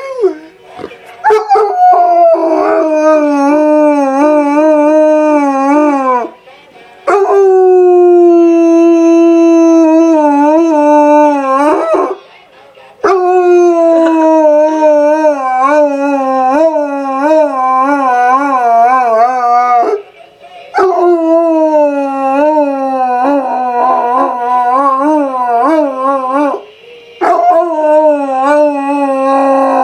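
Dog howling along to a song, in long wavering howls broken by short pauses every five to eight seconds.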